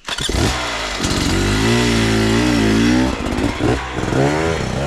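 Dirt bike engine revving hard, coming in suddenly and loud, its pitch wavering up and down as the throttle is worked.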